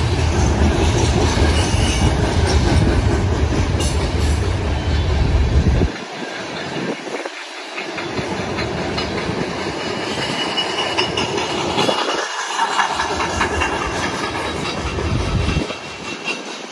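Freight train's covered hopper cars rolling past with a steady rumble and wheels clacking over the rail joints. The deep part of the rumble drops away briefly about six and twelve seconds in.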